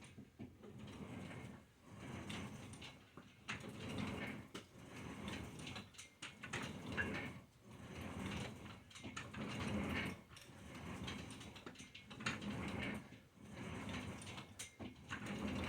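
Slow repeated exercise movement: a swell of rustling noise about every two seconds, with small clicks scattered through it.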